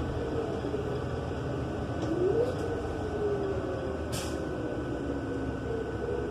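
Interior sound of a New Flyer XN35 bus's Cummins Westport L9N natural-gas engine and Allison transmission running as the bus drives, loud with the HVAC off. A whine rises and then falls about two seconds in, and there is a short hiss near the middle.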